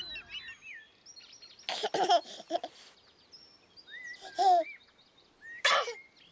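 Birds chirping, with a few short bursts of giggling-like voices about two, four and a half and six seconds in.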